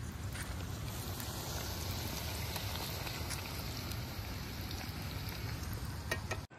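Sliced vegetables sizzling in hot oil in a metal kadhai over a wood fire, with a few light clicks of a wooden spatula stirring against the pan. The sizzle cuts off suddenly near the end.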